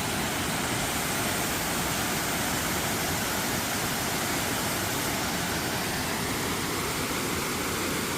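Waterfall on a woodland stream: rushing water making a steady, even roar of noise.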